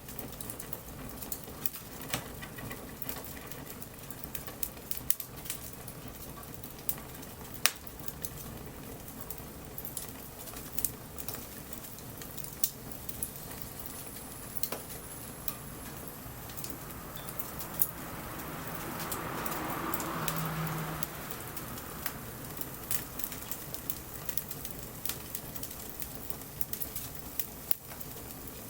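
Wood bonfire crackling with frequent sharp pops over a steady hiss in light rain. The hiss swells for a few seconds about two-thirds of the way through.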